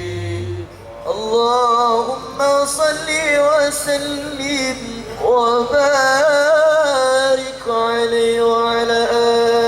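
A solo voice singing an unaccompanied Arabic-style qasidah in long, wavering melismatic phrases, ending on a long held note.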